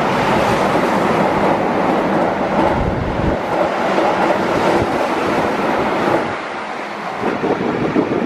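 Keihan 8000 series train running through a station past the platform at speed: a loud, steady rush and rumble of wheels on rail. About six seconds in the sound drops to a quieter background.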